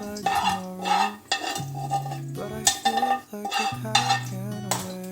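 Background pop music without vocals, with a metal utensil stirring and clinking against a pan several times over it.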